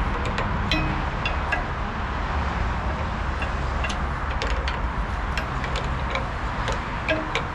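Skid steer engine idling steadily, with scattered sharp metallic clicks and clinks over it.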